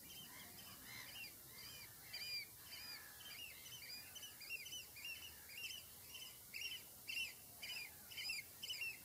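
Small birds chirping: a fast run of short, high, arched chirps that grows busier from about two seconds in, several a second.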